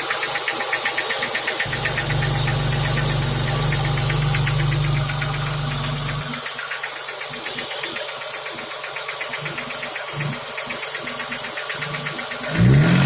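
BMW E34 engine running with a fast, regular knock, which the owner takes for a worn-out piston pin on a connecting rod. A brief rise in engine sound comes near the end.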